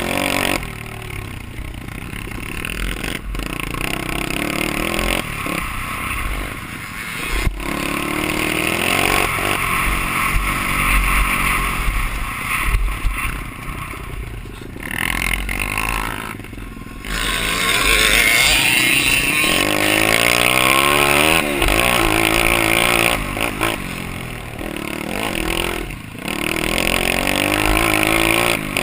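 Off-road motorcycle engine being ridden hard, its pitch repeatedly climbing and dropping as the throttle is opened and shut through the gears.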